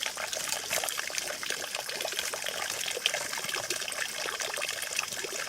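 Water trickling and babbling steadily, a continuous run of small splashes with no break or change.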